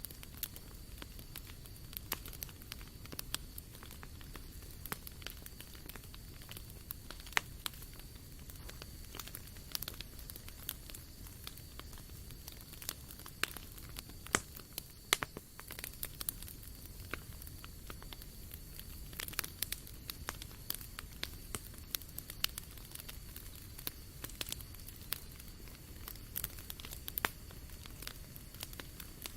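Wood campfire burning, crackling with many sharp, irregular pops.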